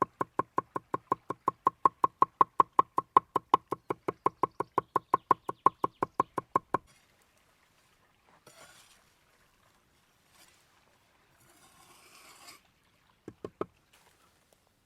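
Knife chopping rapidly on a wooden cutting board, an even run of about six knocks a second that stops about seven seconds in. Faint rustling follows, then three more quick chops near the end.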